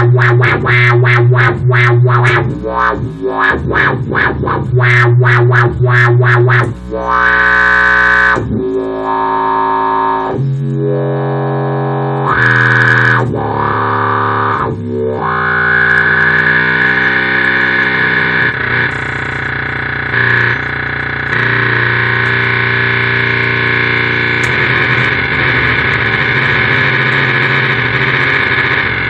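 Electric bass played through a Boss OC-2 octave pedal with synth mod, Fuzzrocious Grey Stache fuzz and Morley Power Wah into an amp, giving a dirty, synth-like dubstep bass tone. It starts with a rhythmic pulsing wobble, moves into several wah sweeps, and about halfway through settles into one long held, buzzy note.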